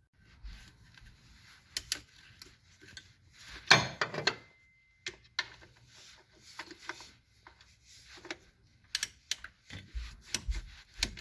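Hand tools clicking, scraping and clattering against metal while the water pump's mounting bolts are being loosened, with a louder clatter about four seconds in and a quick run of sharp clicks near the end.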